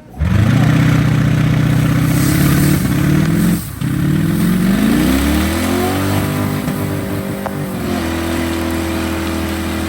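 Car engine under hard acceleration, starting abruptly. About three and a half seconds in it breaks off briefly, like a gear change, then climbs in pitch again and holds steady.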